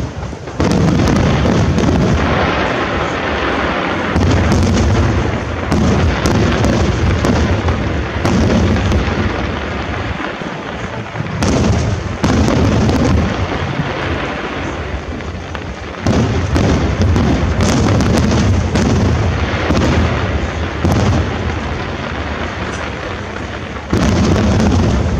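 Aerial firework shells bursting in a dense, continuous barrage: overlapping booms and crackling, with fresh loud volleys every few seconds.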